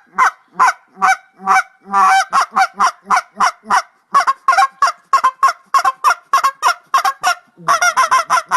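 Swans honking in a rapid string of short calls, about three a second, with several birds calling over one another near the end.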